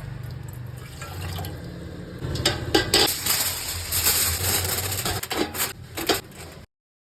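Kitchen pots and utensils clinking over a steady low hum, with a loud rushing noise in the middle. The sound cuts off abruptly near the end.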